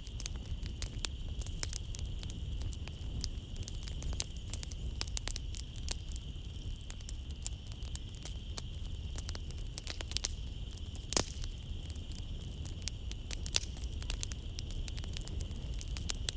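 Wood fire crackling in a fireplace, with many small pops and a sharper one about eleven seconds in. Underneath runs a steady high drone of night insects.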